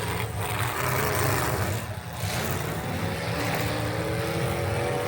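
Truck engine running hard, its pitch climbing slowly, with a short drop about two seconds in.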